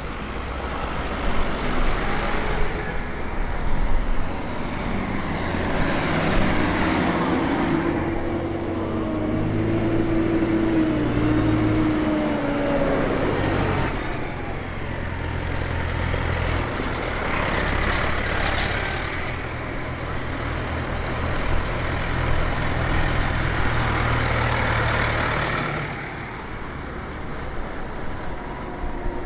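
Several tractor engines running as tractors drive past in a line, a steady low drone with an engine note that rises and falls partway through.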